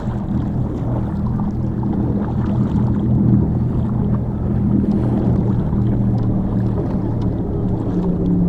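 Boat engine running steadily: a low droning hum with wind and water noise over it, and a deeper tone that comes in near the end.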